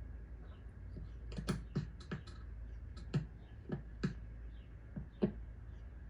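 Typing on a computer keyboard: about ten irregular key clicks over roughly four seconds, the last one the loudest.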